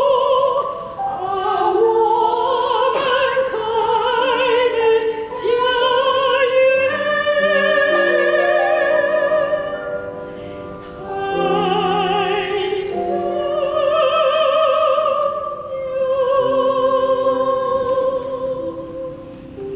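Classically trained soprano singing long, held phrases with a wide vibrato, accompanied by piano.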